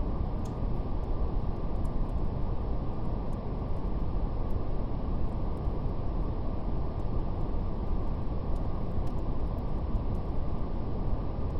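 Steady, deep brown noise, even and unchanging, with faint scattered crackles of a fire.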